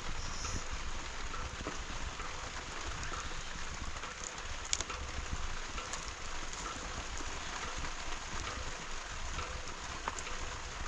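Steady rain falling, with a few sharper drop hits standing out now and then.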